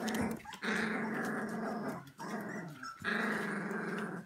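Very young Siberian husky puppies growling as they squabble and play-fight: four long, rough, drawn-out growls in a row with short breaks between them.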